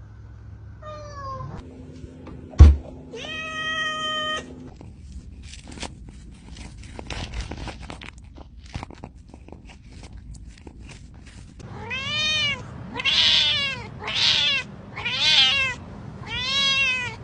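A cat meowing over and over, about one meow a second, each rising and falling in pitch, through the last five seconds. Earlier a single sharp knock, the loudest sound, comes about two and a half seconds in, followed by a brief steady tone and scattered light clicks.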